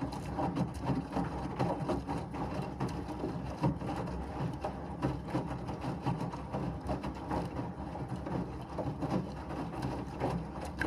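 Washing machine running: a steady low rumble from the turning drum, laced with many small, irregular clicks and rattles.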